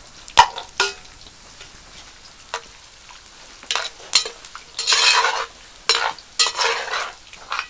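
Food frying in hot oil in a pot, stirred with a utensil: repeated bursts of sizzling and scraping with a few sharp clinks against the pot.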